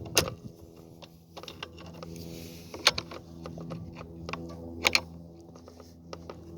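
Sharp clicks and clinks of hand tools being handled while working on a chainsaw. The loudest come just after the start, about three seconds in and about five seconds in, over a steady low hum.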